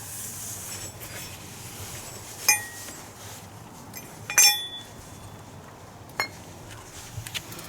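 Small metal objects clinking against a hard surface: three separate clinks, about two and a half, four and a half and six seconds in, the middle one the loudest with a short ring, then a couple of faint ticks near the end.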